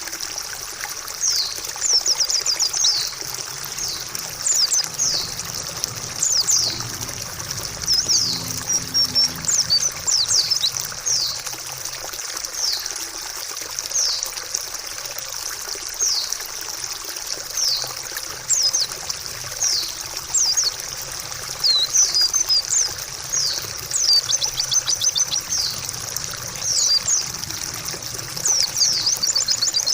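White-eye (pleci) singing, short quick high notes in runs every second or two, over a steady trickle of running water.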